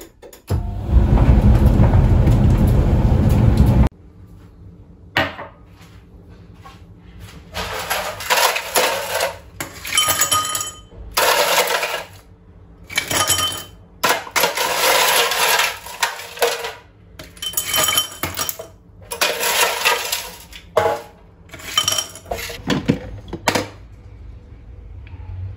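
Dishes, glassware and cutlery clinking and clattering as they are handled in a kitchen, in many irregular short bursts. It opens with a loud steady rushing noise lasting about three seconds.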